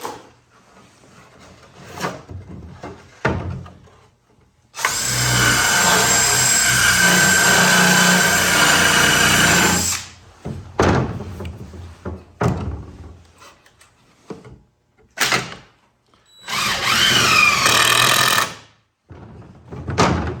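Power drill driving long wood screws into a door frame: one steady run of about five seconds, a few knocks, then a shorter run of about two seconds near the end.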